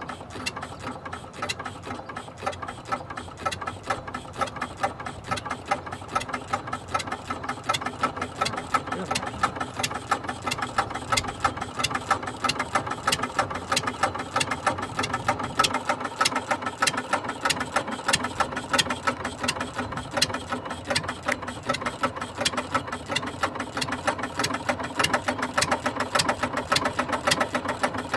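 Replica of Henry Ford's 1893 single-cylinder gasoline engine running, a rapid, even clatter of mechanical clicks that grows a little louder toward the end.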